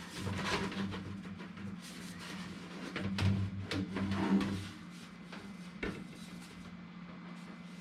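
Inline duct booster being handled and test-fitted against a 6-inch duct pipe: rubbing and scraping with a few light knocks, then a single click about six seconds in, over a steady low hum.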